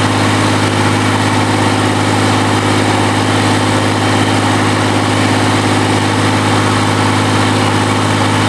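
QC385 diesel engine of a stationary diesel drive running steadily at a constant speed, with an even, unchanging hum.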